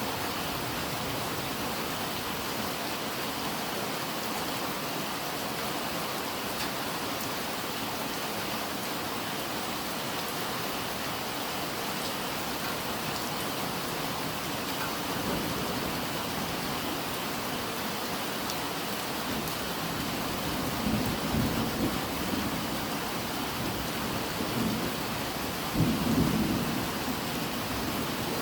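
Steady rain falling, with low rumbles of thunder swelling about two-thirds of the way in and again, louder, near the end.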